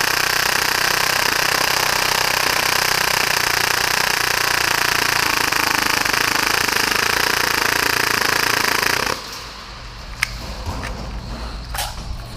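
Full-auto Tokyo Marui Hi-Capa gas blowback airsoft pistol firing one long continuous burst at about 30 rounds per second, then cutting off suddenly about nine seconds in. A few sharp clicks follow.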